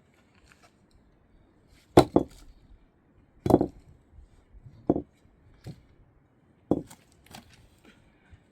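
A run of irregular sharp knocks or chopping strikes, about eight in all, the loudest a little after two seconds in and again around three and a half seconds.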